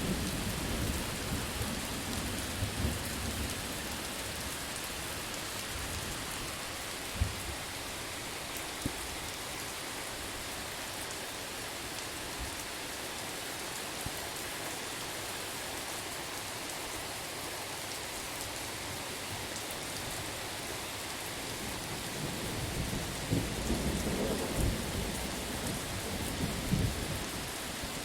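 Steady rain hissing, with thunder rumbling at the start that dies away in the first few seconds, and rolling thunder that builds again in the last few seconds. A couple of sharp cracks sound a few seconds in.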